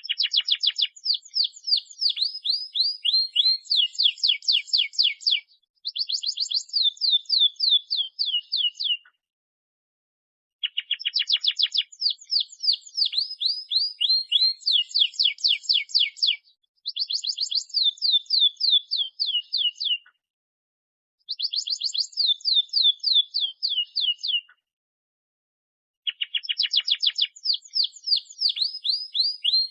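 Domestic canary singing in long bursts of fast, rapidly repeated falling notes, each phrase lasting a few seconds, with short pauses between phrases.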